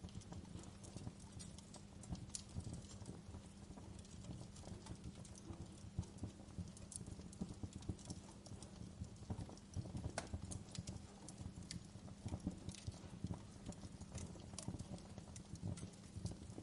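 Wood fire crackling in a fireplace: irregular small pops and snaps over a low, steady rumble of burning, with a few sharper snaps about six and ten seconds in.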